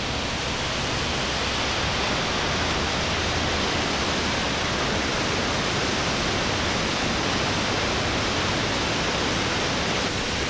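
Big Creek Falls, a large plunge waterfall, roaring steadily as it pushes out a lot of water.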